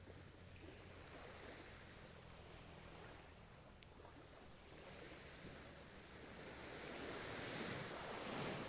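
Ocean waves: a steady surf wash that swells into a louder wave over the last couple of seconds, peaking near the end.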